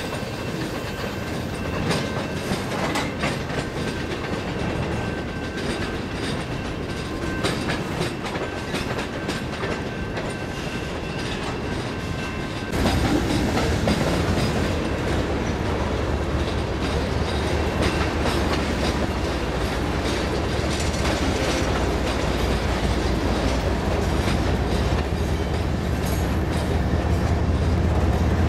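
A freight train of tank cars and covered hoppers rolls past over jointed track with a steady clickety-clack and a faint steady squeal. About halfway in, the sound turns suddenly louder and deeper as the cars pass close by. A low diesel rumble from Iowa Interstate locomotives, an ES44AC among them, builds near the end.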